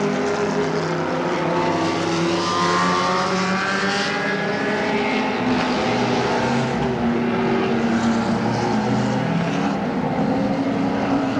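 Several GT race car engines running together, with one accelerating and rising in pitch about two seconds in.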